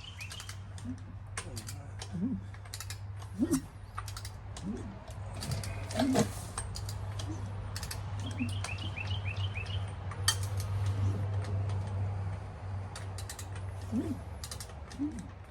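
Ratchet clicking as the engine is turned over by hand during a compression test, over a steady low hum. A bird chirps a quick run of notes about eight seconds in.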